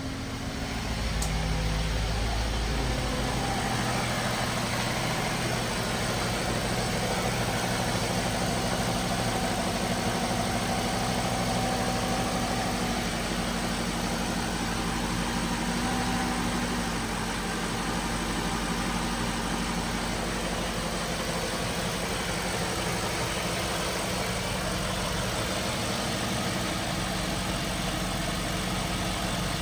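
2003 Range Rover HSE's 4.4-litre V8 idling steadily on a cold start, heard at the engine bay.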